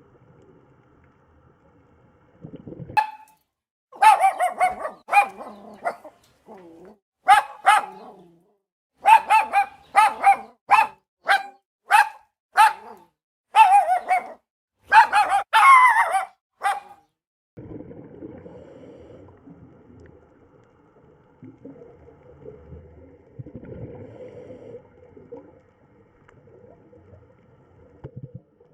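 Dog barking repeatedly: a string of short, sharp barks for about fourteen seconds, then only faint background noise.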